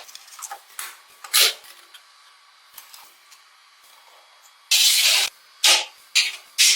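Several short bursts of spraying hiss, with a quiet gap in the middle and the longest burst, about half a second, shortly after it.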